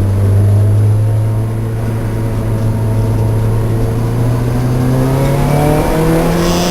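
Lancia Delta race car engine running at a steady pitch, then revving up as it accelerates over the last couple of seconds.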